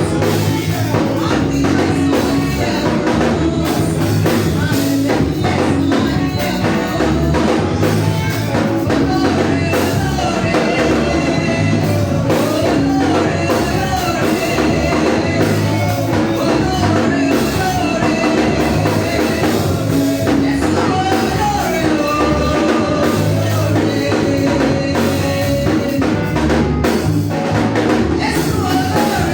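Church praise music: a band with drum kit playing a steady beat, with singing over it.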